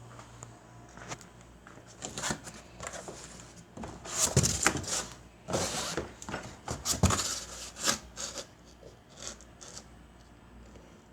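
Handling noises: irregular rubbing, scraping and knocks of objects being moved, loudest in a cluster about four to eight seconds in.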